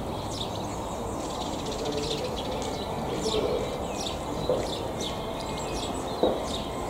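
Small birds chirping and singing, many short high chirps repeating throughout, over a steady low background rumble. A brief soft knock comes about six seconds in.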